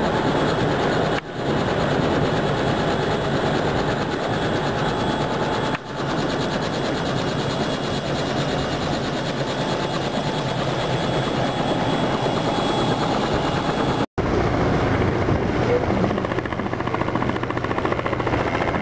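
Robinson R66 turbine helicopter running: a steady, loud drone of turbine and rotors. It is broken by brief dropouts about one, six and fourteen seconds in, and after the last one it takes on a lower, steadier hum.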